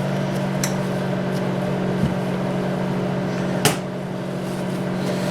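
Steady low machine hum in the room, with a faint click early on and one sharp click or knock about three and a half seconds in, as small mixer parts are handled.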